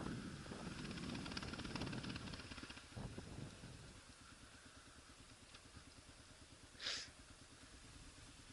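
Motorcycle engine idling quietly with a fast, even pulse. A louder rush of noise fills the first few seconds, and a short hiss comes about seven seconds in.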